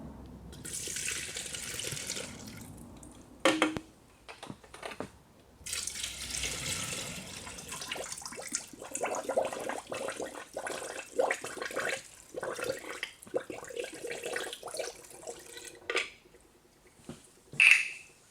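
Water running and splashing in two long spells, with scattered knocks and clinks of handling in between.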